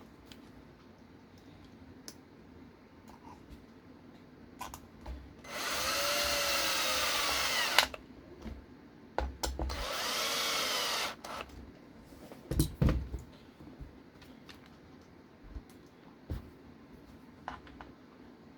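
Cordless power driver running screws in twice, each run about two seconds with the motor speeding up and slowing down, driving in the battery bracket screws; a few sharp knocks and light clicks of handling around it.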